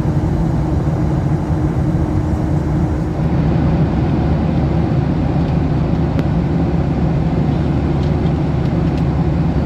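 Steady low rumble of air and engine noise inside the cabin of a Boeing 737-800. A higher hum drops out about three seconds in, and a few faint clicks come later.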